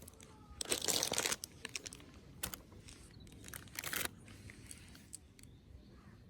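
Crinkling, rustling handling noise in two bursts about three seconds apart, with scattered small clicks between.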